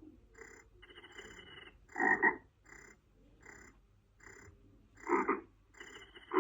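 Frogs croaking in a steady chorus, short calls repeating evenly about every three-quarters of a second. Louder croaks stand out about every three seconds.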